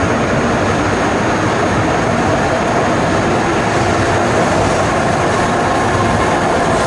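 Shinkansen bullet train running past close by: a loud, steady rushing noise with a faint whine.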